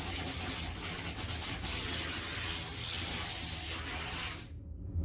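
Compressed-air blow gun hissing steadily as it blows sanding dust off a freshly sanded car bonnet, cutting off suddenly about four and a half seconds in.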